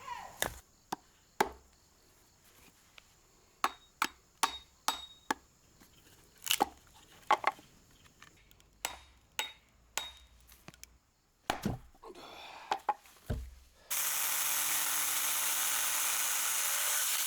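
Axe chopping firewood: a series of sharp, irregularly spaced strikes on wood. About fourteen seconds in, a loud steady hiss takes over.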